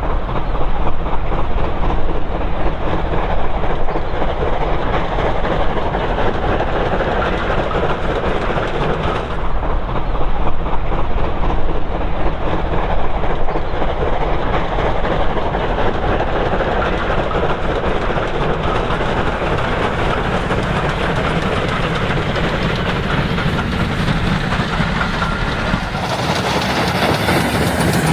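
Steam train double-headed by two GWR 0-6-0 pannier tank locomotives running on the line, with a loud, steady mix of locomotive and rolling noise. The sound changes about two seconds before the end.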